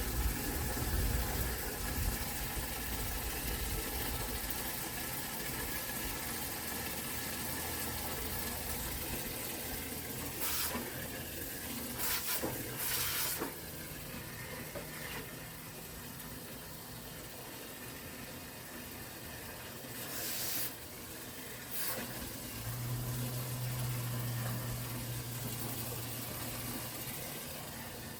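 Water running steadily into a bucket as it fills. There are a few short, sharper bursts near the middle, and a low hum comes in twice in the second half.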